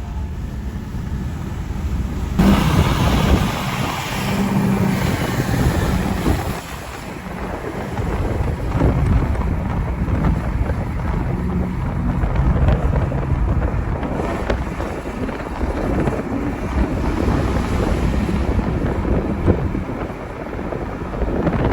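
High-performance V8 engines at full throttle during a roll race, the engine noise swelling about two seconds in and staying loud, with wind buffeting the microphone.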